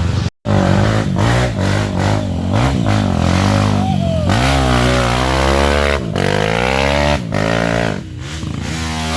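Off-road motorcycle engines revving hard, the pitch climbing and dropping again and again as the bikes are worked through mud. The sound cuts out for an instant just after the start.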